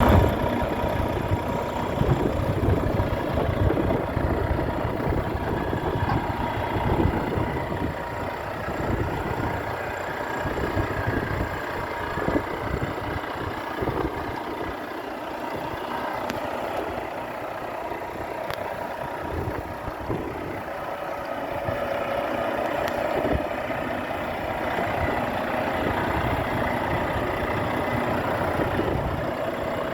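Diesel engine of a Renault T 440 truck, an 11-litre six-cylinder, idling steadily.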